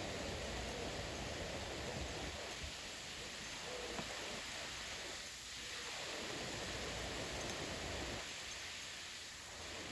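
Gusty wind blowing in steady rushing noise, with a low rumble that eases briefly about midway and again near the end.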